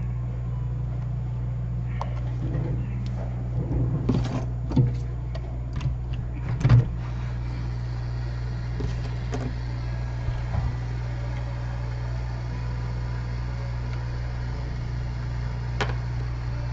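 Steady low electrical hum of workbench equipment, with scattered clicks and knocks of tools and parts being handled during a tablet repair, most of them in the first half.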